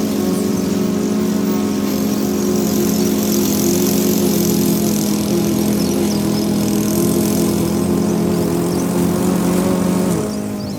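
Gas self-propelled walk-behind lawn mower (Toro SmartStow) running steadily as it mows. The sound drops a little in level and its tone changes shortly before the end.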